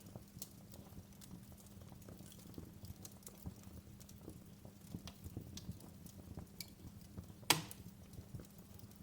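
Fire crackling in a fireplace: scattered small pops and snaps over a low steady rumble, with one loud sharp pop about seven and a half seconds in.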